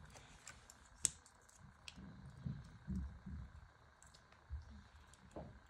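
Faint, scattered clicks and light knocks of plastic Lego pieces being handled.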